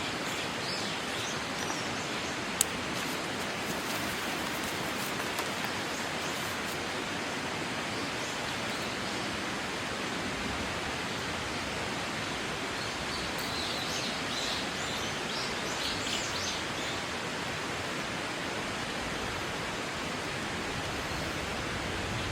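Steady outdoor rushing noise, with a few faint high bird chirps near the middle and a single sharp click a few seconds in.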